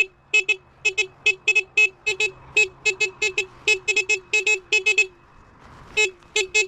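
The Sur-Ron electric dirt bike's horn beeping over and over in short, quick toots, often in pairs. The beeping stops for under a second about five seconds in, then starts again.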